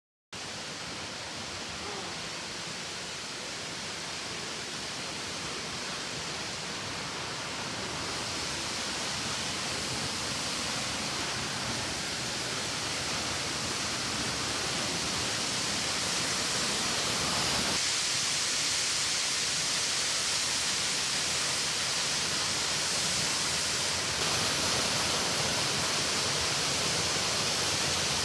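Waterfall: a steady rush of falling water that starts abruptly and grows slowly louder.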